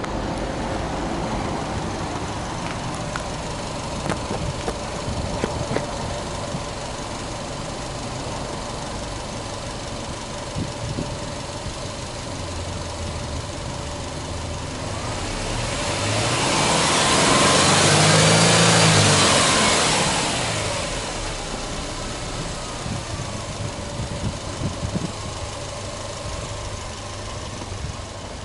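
Subaru Impreza WRX STI's turbocharged flat-four boxer engine idling steadily, with one slow free rev about halfway through: the revs climb for a few seconds, peak, and fall back to idle.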